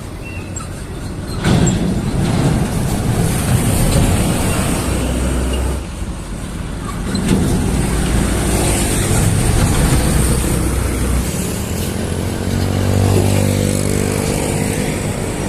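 Road traffic passing close by, a steady rush of engines and tyres that rises and falls as vehicles go past. From about twelve seconds in, a heavy vehicle's engine hum with a clear pitch stands out as it passes.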